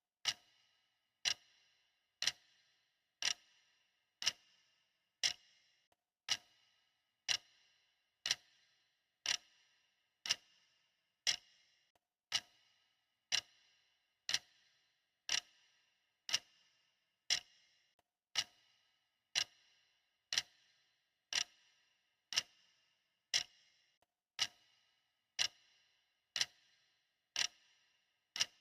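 Clock ticking steadily once a second, each tick a sharp click with a brief ring.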